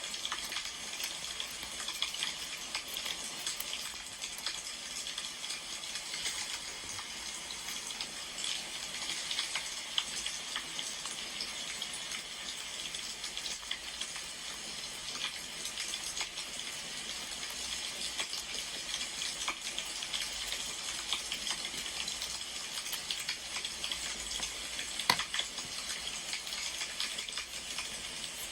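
Wood fire crackling steadily, with many small pops and one sharper pop about 25 seconds in.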